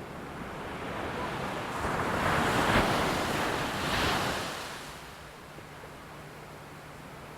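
A rushing, wind-like noise swells to a peak and fades away over about four seconds, then a steady low hum carries on.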